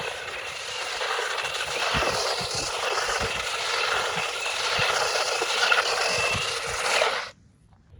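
Haiboxing 2995 brushed RC desert buggy driving over rough ground: a steady rattling run with a faint motor whine and scattered knocks, cutting off suddenly about seven seconds in.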